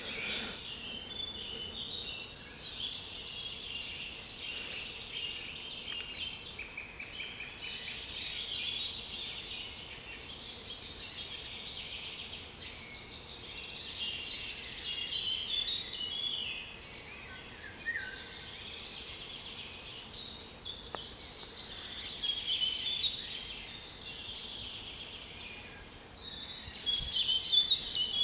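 A mixed chorus of European songbirds, several birds singing at once in dense, overlapping phrases and trills, with a louder burst of song near the end.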